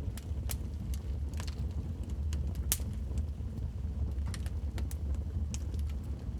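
Wood fire crackling in a fireplace: irregular sharp pops and snaps over a steady low rumble of the flames, the loudest pop a little under three seconds in.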